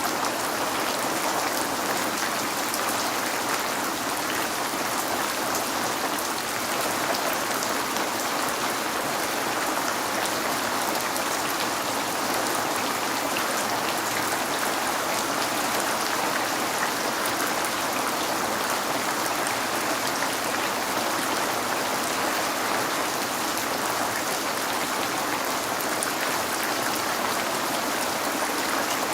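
Steady rain falling on a window: an even hiss of rain with fine drop ticks, unchanging throughout.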